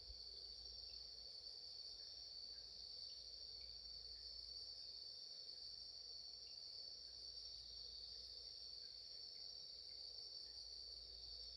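Insects, crickets by the tags, chirring in a steady, unbroken high-pitched chorus, faint overall.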